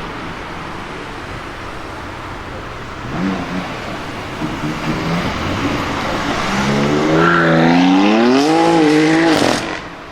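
BMW performance car engine accelerating hard, its pitch climbing steadily over about three seconds and getting louder, then cutting off suddenly near the end. A shorter burst of engine noise comes about three seconds in, over a steady rush of road and exhaust noise.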